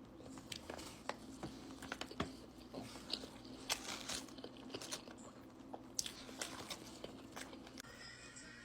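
Crunchy food being bitten and chewed close to the microphone: a quick, irregular run of crisp crackles and crunches.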